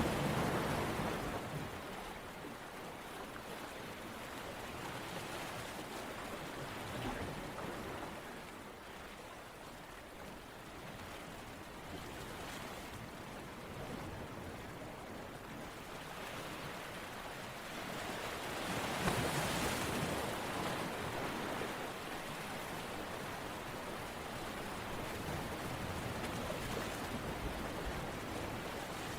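Ocean surf, waves washing in and drawing back in slow surges, with a louder wave breaking about 19 seconds in.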